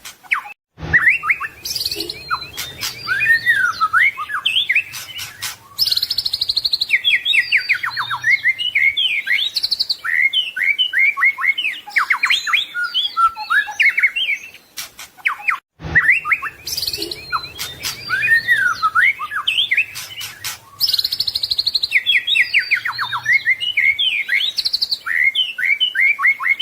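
White-rumped shama (murai batu) singing a long, varied song of rapid whistles, trills and mimicked phrases. The sound cuts out briefly about a second in and again near 16 seconds, each time restarting the same looped recording of the song.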